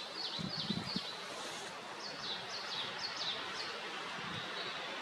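A small bird calling outdoors: runs of short, high, downward-sliding chirps, about three a second, one run in the first second and another from about two seconds in, over a steady hiss of background noise.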